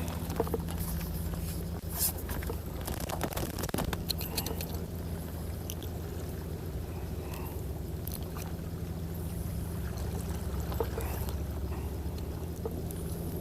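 A steady low engine hum, with water sloshing and scattered sharp clicks and scrapes in the first few seconds.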